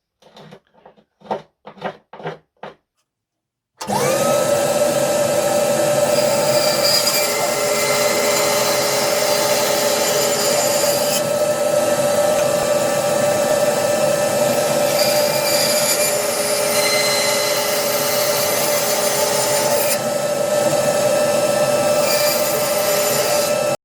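A few short knocks, then an electric power tool starts with a brief rising whine and runs steadily with a constant hum before cutting off abruptly.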